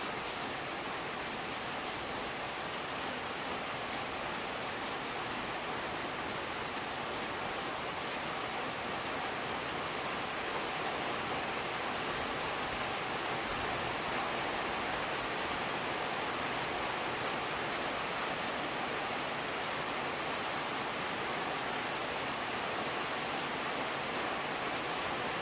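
Steady rainfall, a continuous even hiss of rain with no distinct drops standing out.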